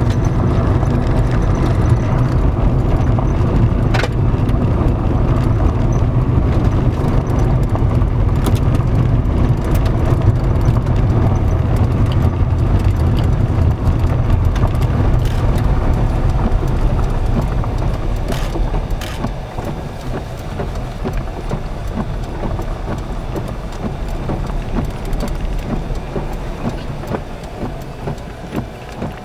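Road and engine noise inside a moving car's cabin: a steady low rumble that eases off about two-thirds of the way through as the car slows, with a few scattered clicks.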